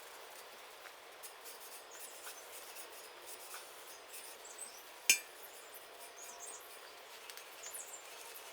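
Quiet outdoor background with scattered faint, high bird chirps, and one sharp metallic clink about five seconds in.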